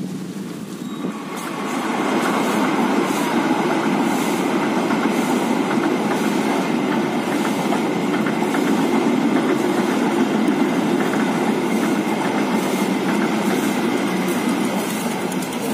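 Passenger train passing over a railway bridge: a steady rumble of wheels on rails with repeated clacks over the rail joints, swelling in about a second and a half in and continuing loud.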